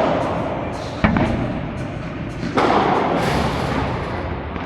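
Padel ball being struck during a rally: three sharp thuds, about a second and a second and a half apart, each ringing on with a long echo.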